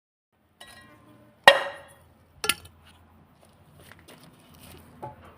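Kitchenware being handled and set down: a light ringing clink, then a loud clank with a ringing tail about a second and a half in, a second knock a second later, and a softer knock near the end.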